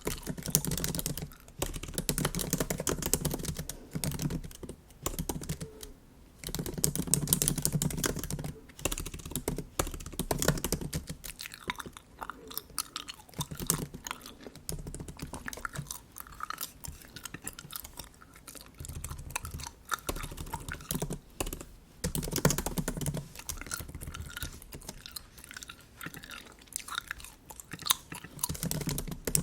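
Bubble gum being chewed close to the microphone, mixed with typing on a MacBook keyboard: a running patter of quick key clicks, with stretches of louder chewing.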